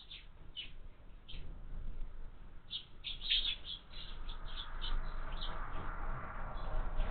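House sparrows chirping in short, quick notes, a few at first and then a flurry from about three seconds in, with a soft rushing noise underneath in the second half.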